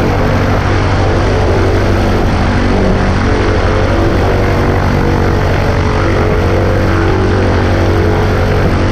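Cessna 140A's piston engine and propeller running with a steady, unchanging drone.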